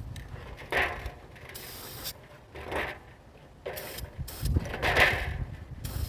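Aerosol spray paint can spraying in several short hissing bursts, with wind rumbling on the microphone.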